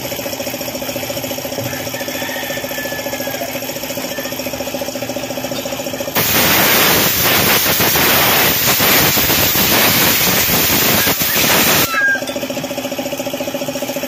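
Suzuki F6A three-cylinder engine idling steadily. About six seconds in, a loud hiss drowns it out for about six seconds and then cuts off suddenly.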